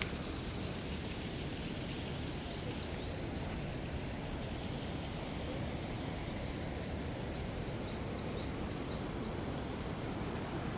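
Steady rushing background noise with a strong low rumble, unbroken throughout.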